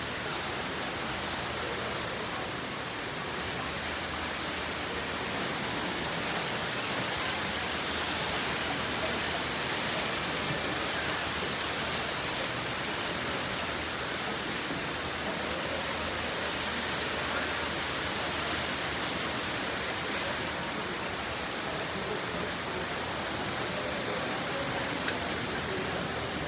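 Steady rushing cabin noise inside an Airbus A350-1000 airliner, an even hiss without breaks.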